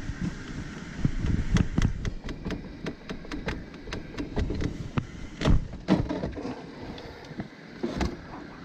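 Ratchet wrench working loose the negative terminal nut on a generator's lead-acid battery: a run of quick ratchet clicks, then a few louder metal knocks as the terminal is worked off, about five and six seconds in.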